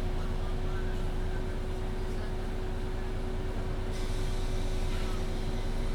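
Interior sound of a MAN Lion's City 19C NG360 EfficientHybrid articulated bus running steadily, a diesel drivetrain with a steady whine over a low rumble. A hiss rises about four seconds in.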